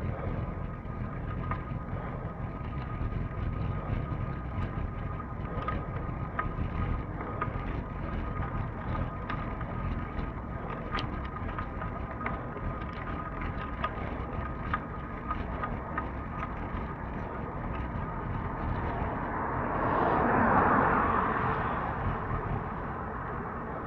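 Steady rolling rumble and wind noise with faint steady tones and scattered small ticks. About twenty seconds in, a vehicle's tyre hiss swells up and fades away as it passes on the wet road.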